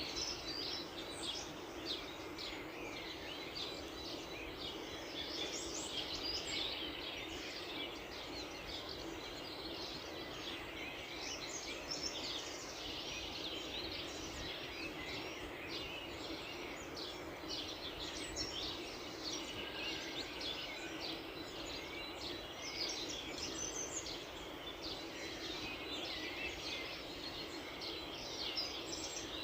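A dawn chorus of many small songbirds chirping and twittering in quick overlapping calls, over a steady background hiss.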